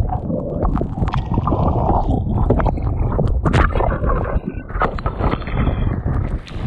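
Strong wind buffeting the microphone, with water splashing and slapping, as a hydrofoil board rides downwind in rough water. A faint high whistle comes in briefly about four seconds in.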